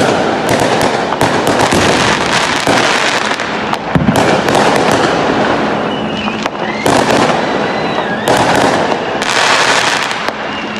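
Fireworks display: dense, continuous crackling with many sharp pops and bangs overlapping, and a couple of brief whistles around the middle.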